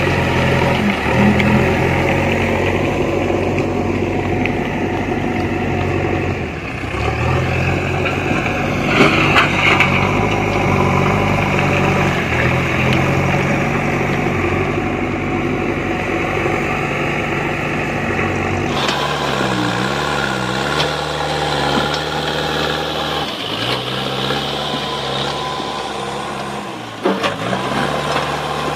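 JCB backhoe loader's diesel engine running steadily. Its note changes abruptly about two-thirds of the way through, and there is a brief clank near the end.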